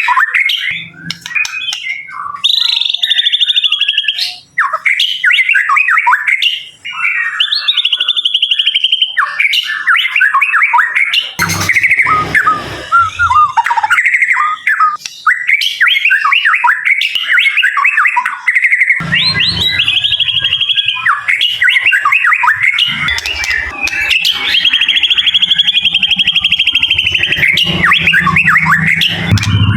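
White-rumped shama (murai batu) singing a loud, varied song: quick chirps and whistled sweeps broken by several long, buzzy trills. A low rumble sits under the song in places.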